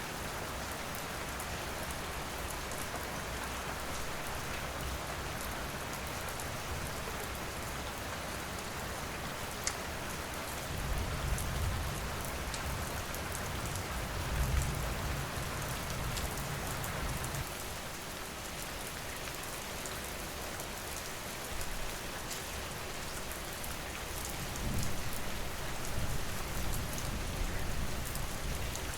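Steady rain falling, with scattered sharp crackles and pops from a wood fire. Twice a low rumble swells up under the rain, around the middle and again near the end.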